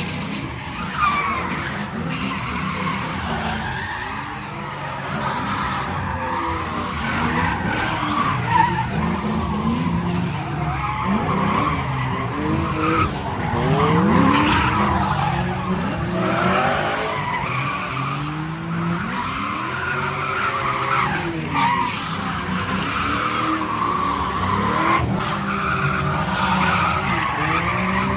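Drift cars sliding, engines revving up and down over a steady squeal of spinning tyres.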